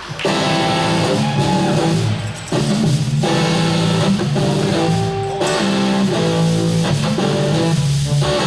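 A live band's guitar intro to a blues-americana song: guitar chords played in phrases, with short breaks at about two and a half and five seconds.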